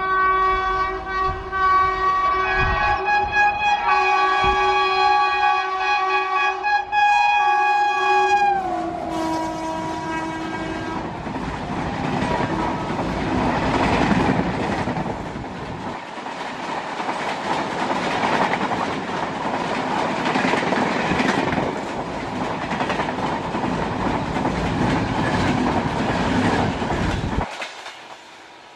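Electric locomotive's multi-tone horn sounding steadily as the express approaches at speed, its pitch dropping about eight seconds in as the locomotive passes. Then the rushing clatter of the coaches' wheels over the rail joints goes on for some twenty seconds before cutting off abruptly near the end.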